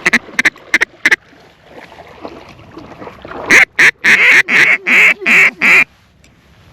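Duck call blown to bring in passing ducks: four short quacks, then a run of about seven loud quacks with a wavering pitch.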